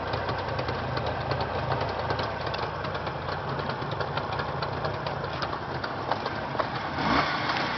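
Jawa motorcycle's two-stroke engine idling steadily with a dense, fine ticking, getting briefly louder about seven seconds in.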